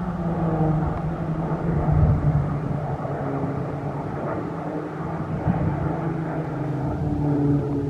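PZL-130 Orlik propeller training aircraft running loud and steady, with a droning engine-and-propeller tone that shifts slightly in pitch.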